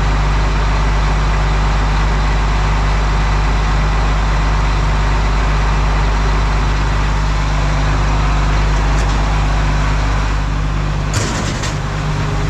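Combine harvester's diesel engine idling steadily, with the rotary radiator screen cleaner turning on its freshly lubricated tensioner pulley. Near the end a short sharp clunk, after which the engine's low rumble drops.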